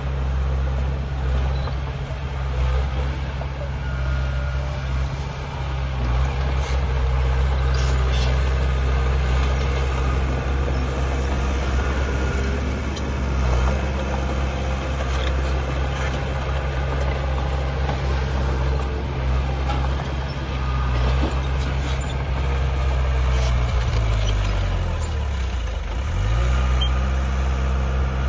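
Heavy diesel engine of earth-moving machinery running steadily. About 24 seconds in, the engine speed drops and then rises back.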